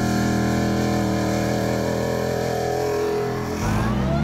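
A 6.4-liter Hemi V8 in a Jeep Wrangler JK runs at steady revs as it climbs a volcanic cinder slope. About three and a half seconds in it gives way to another engine with a high whine rising in pitch: the supercharged 3.6-liter V6 of a CJ10 building revs.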